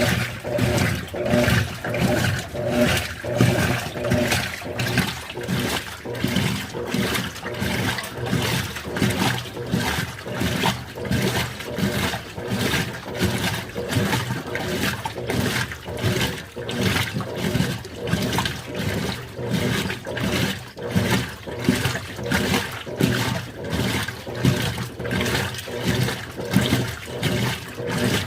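Continental Evolution 13 kg washing machine churning clothes in water on its delicates cycle with an extra-low water level, the water sloshing in quick, regular surges.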